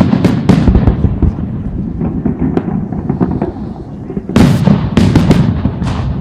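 Fireworks shells bursting in quick succession over a low, continuous rumble of further bangs. A dense run of sharp bangs comes in the first second and again about four and a half seconds in.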